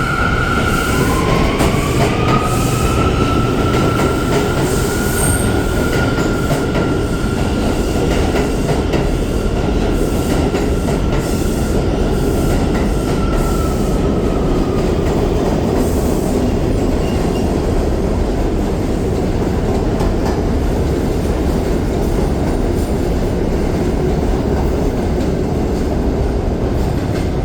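R179 subway train pulling out of the station. A whine rises about a second in, holds steady and fades about halfway through, over the continuous loud rumble and wheel clatter of the cars running past.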